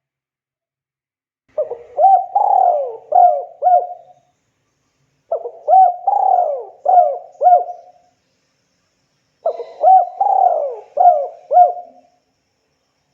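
Spotted dove (tekukur) cooing: three calls a few seconds apart, each a run of about five low hooting notes.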